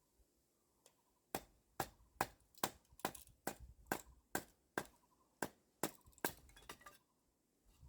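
Hammer blows on wood, about a dozen sharp, evenly spaced strikes, a little over two a second, starting about a second in and stopping shortly before the end.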